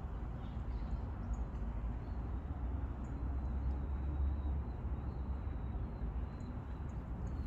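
Outdoor park ambience: a steady low rumble with a faint hiss, and faint, short high chirps of birds here and there.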